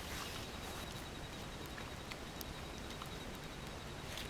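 Steady outdoor background noise with scattered faint, irregular clicks.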